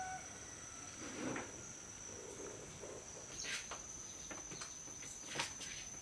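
Insects, likely crickets, giving a steady high-pitched trill, with a few soft knocks and clicks about one, three and a half, and five and a half seconds in.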